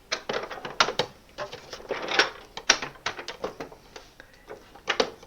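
Plastic clicks and rattles of a Hoover Complete Performance upright vacuum's carpet height adjustment being worked through its settings: an irregular run of sharp clicks in clusters, with a pause a little past halfway and a last pair of clicks near the end.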